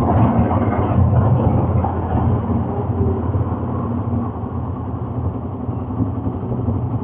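Quad bike engine running steadily, a low drone as the bike rides along.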